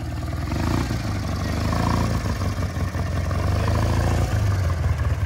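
Small engine of a rock-crawling riding lawn mower running steadily, its speed rising and falling a little as the throttle changes, with a brief dip about four seconds in.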